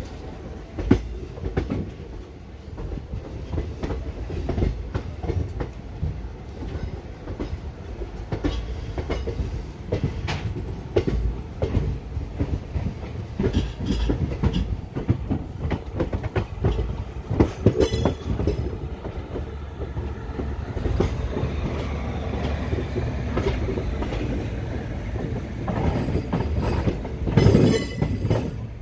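Train running on track: a steady low rumble with an irregular clatter of wheel knocks over the rail joints, and louder stretches of rattle about two-thirds of the way through and again near the end.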